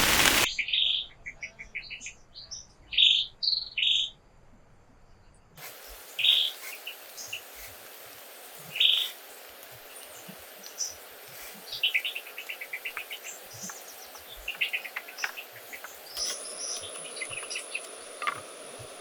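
Wild forest birds chirping and singing in short, bright repeated phrases. Heavy rain cuts off abruptly about half a second in. A faint steady high insect-like tone joins near the end.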